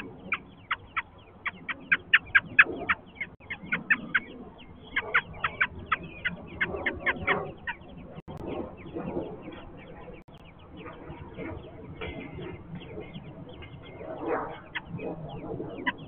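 American robin nestlings begging: a rapid run of short, high-pitched calls, loudest and densest in the first half and sparser toward the end. Lower clucking calls run underneath.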